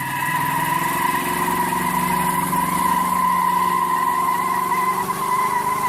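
A car engine running steadily, with a strong steady whine over it.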